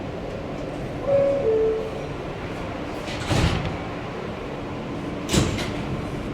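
R160B subway car's two-note falling door-closing chime, then the sliding doors shutting: two short loud bangs about two seconds apart, over a steady rumble from the car.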